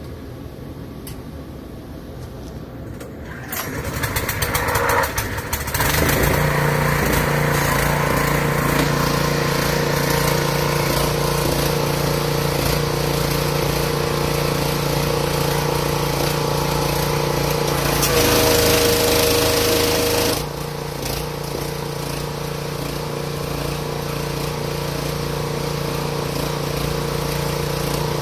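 7 hp gasoline engine of a high-pressure washer coming up to speed about four to six seconds in, then running steadily. For about two seconds past the middle, and again at the very end, a higher steady tone and a hiss join the engine sound.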